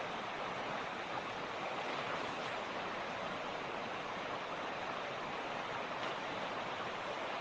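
Mountain creek water rushing steadily over stones, an even flowing noise with no pauses.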